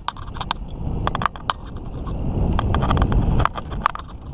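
Mountain bike ridden over a dirt trail: a low rumble of tyres and wind on the microphone, with sharp clicks and rattles from the bike. The rumble is heaviest about two to three seconds in.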